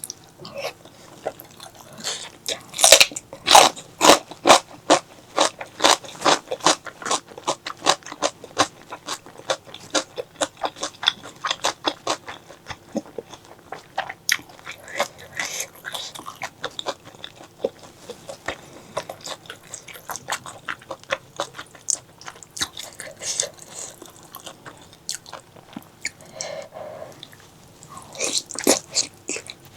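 Close-miked chewing and biting of spicy pork leg curry: a dense, irregular run of sharp mouth and teeth clicks with some crunches, busiest in the first few seconds and again near the end.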